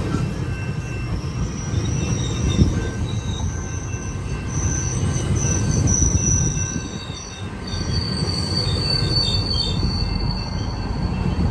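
GO Transit commuter train rolling past with a low rumble, its wheels squealing on the rails through most of the passage with thin high-pitched tones that come and go.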